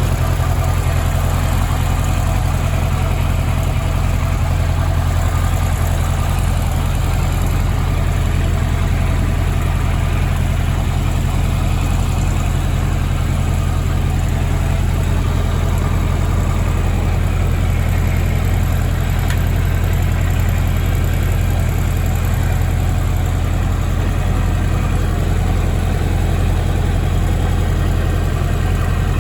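1983 Kawasaki Z1000R2's air-cooled 998 cc inline-four engine idling steadily.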